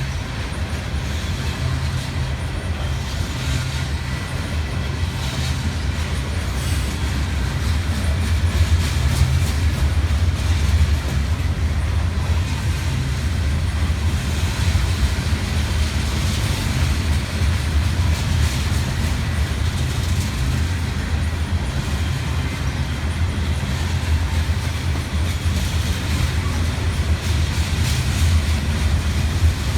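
CSX freight train rolling past, a loud steady low rumble that holds throughout.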